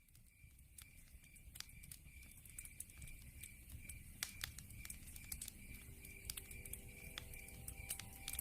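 Log fire crackling, with scattered sharp pops over a low rumble, fading in over the first few seconds. Through it runs a steady high chirp repeating about three times a second, the night-time insect sound laid over the fire.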